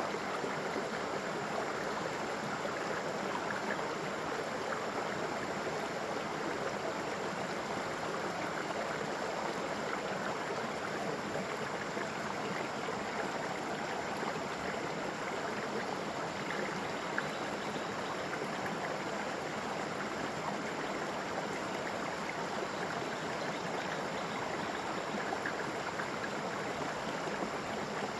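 Water of a gentle waterfall flowing and splashing in a steady, continuous rush that stays even throughout.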